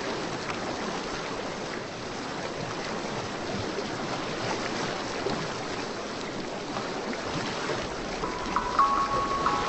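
Steady rushing wash of water, an ocean-surf ambience. A few short music notes come in near the end.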